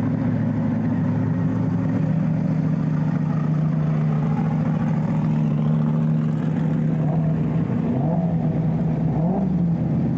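Formula Offroad car engine idling steadily, with a couple of quick revs up and back near the end.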